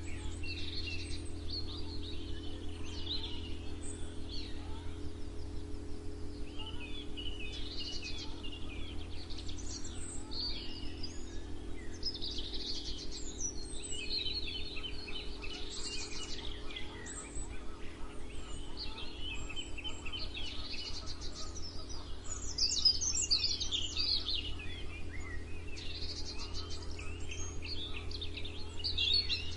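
Several birds chirping and singing in overlapping short trills and calls, busier in the last few seconds, over a steady low hum.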